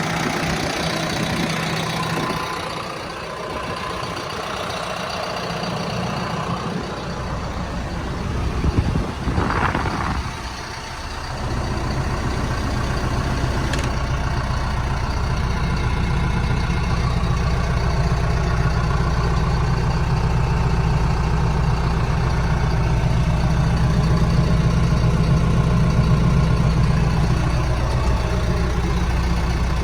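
John Deere 6115D tractor's diesel engine running steadily. About nine seconds in there is a brief louder surge that rises and falls in pitch. After that the engine runs on with a stronger, deeper steady drone.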